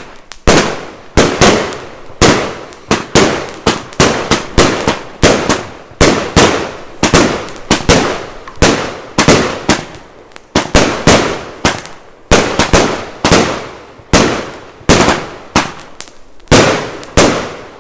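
Pangu Fireworks 'Colourful City' firework cake firing shot after shot: loud sharp bangs about one to two a second, each trailing off in an echo. The barrage stops just before the end.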